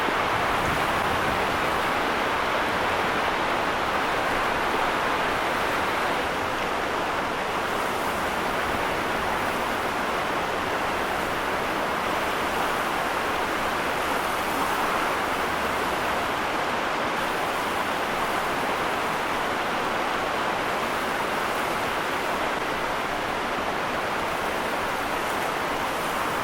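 Steady, even rushing noise of a heavy snowstorm, wind and driving snow, with no breaks or single hits.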